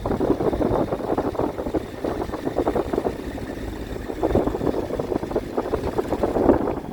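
Triumph Tiger 800's three-cylinder engine running while the motorcycle is ridden, its exhaust note swelling and easing, with wind noise on the microphone.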